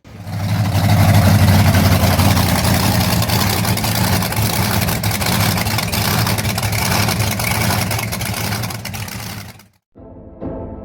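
Monster truck's V8 engine running loud and steady, with a cut to music near the end.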